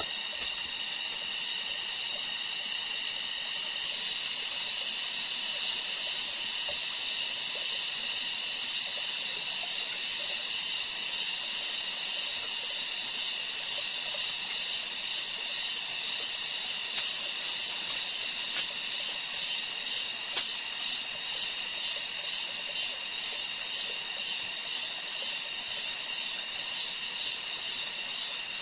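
High-pitched shrill of rainforest insects, steady at first, then pulsing about twice a second from about halfway through. Two short sharp clicks stand out, the louder one about two-thirds of the way in.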